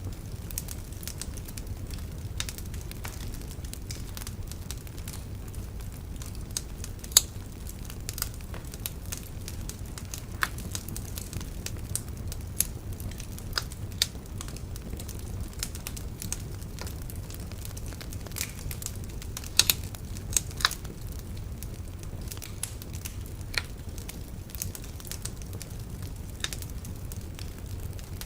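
Wood bonfire crackling: irregular sharp pops and snaps over a steady low rumble, with a loud pop about seven seconds in and a cluster of louder pops around twenty seconds.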